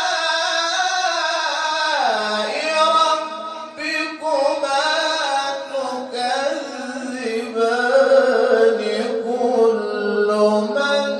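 Solo male voice reciting the Quran in the melodic mujawwad style, with long ornamented notes that slide and waver in pitch. A phrase falls away about two seconds in, and a new phrase starts soon after.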